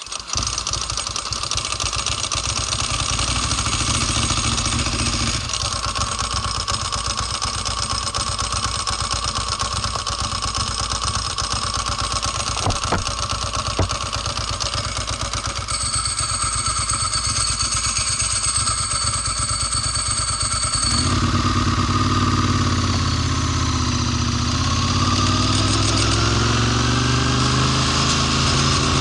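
Ducati Monster S4's L-twin engine running. From about two-thirds of the way in it gets louder and deeper, and its pitch dips and rises.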